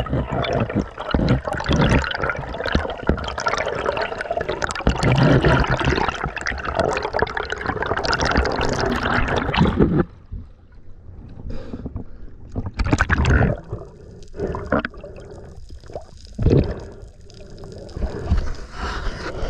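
Water sloshing and gurgling around a snorkeller's action camera, loud and dense, then about ten seconds in it drops abruptly to a quieter, muffled stretch with scattered short bubbling bursts as the camera goes under on a dive.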